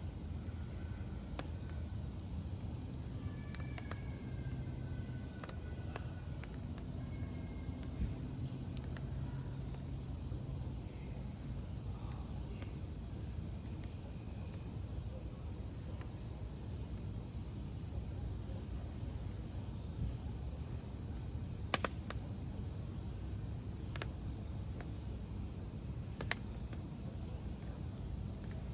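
Crickets chirping in a steady, unbroken high-pitched chorus over the low hiss of a wood campfire, with sharp crackles and pops from the burning wood, several of them in the second half.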